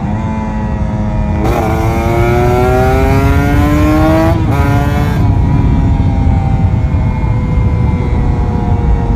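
Kawasaki Ninja RR 150's two-stroke single-cylinder engine under way. About one and a half seconds in, the revs jump and then climb steadily for about three seconds. A gear change comes near the halfway point, after which the engine runs on at a steady, slowly falling pitch, with wind rumble throughout.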